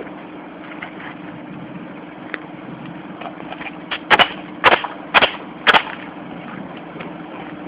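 Pneumatic roofing nail gun firing four times, about half a second apart, over a steady hum.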